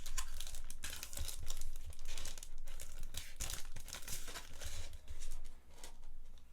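Packaging being torn open and crinkled by hand, a dense irregular rustling and tearing that dies down near the end.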